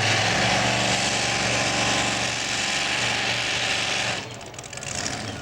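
Super modified four-wheel-drive pulling truck's engine running hard at high revs, then dropping off sharply about four seconds in.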